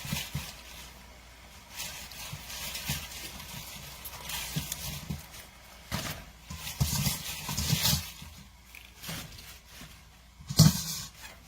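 Kitchen handling sounds as baby bok choy goes into a pot of boiling water: irregular rustles and splashes, with one sharp knock against the pot about ten and a half seconds in.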